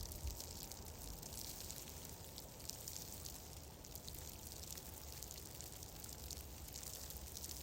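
Fireplace crackling steadily: an even hiss with many faint scattered pops and ticks over a low rumble.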